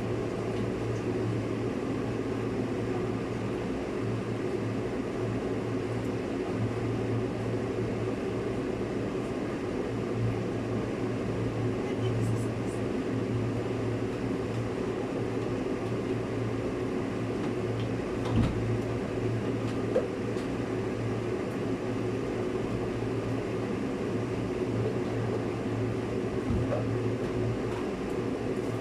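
Steady low mechanical hum with an even hiss, like a running kitchen appliance or fan, with two brief knocks about two-thirds of the way through.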